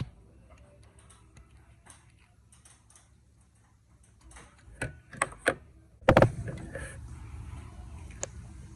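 Small metal parts and tools handled, with faint clicks and a few sharper clicks, then a sharp knock about six seconds in followed by a low steady background noise, as spark plugs are being gapped.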